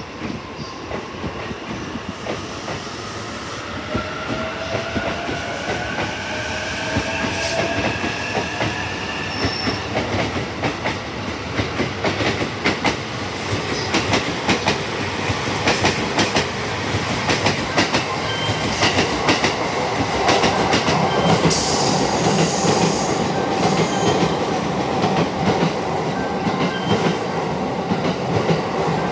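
E231- and E233-series electric commuter trains departing. A rising motor whine is heard in the first several seconds as one train accelerates away, then the clickety-clack of wheels over rail joints. Toward the end the clattering swells and grows louder as a train passes close on the next track.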